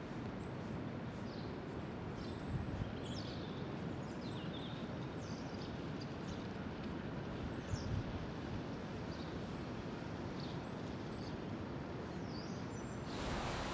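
Small birds chirping outdoors, short high chirps every second or so over a steady background hiss, with a couple of faint low thumps. The background hiss steps up just before the end.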